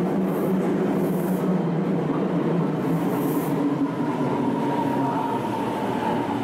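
Meitetsu electric train pulling in to the platform, a steady rumble of wheels and running gear as it slows, with a thin higher whine coming in about four seconds in.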